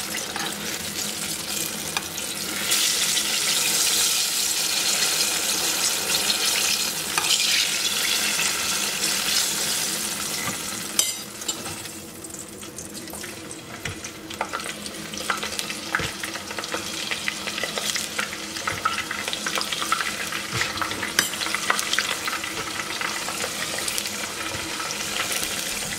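Eggplant slices sizzling as they fry in hot oil in a pot, with small crackles and sharp pops now and then. The sizzle is louder for the first ten seconds or so, then softer.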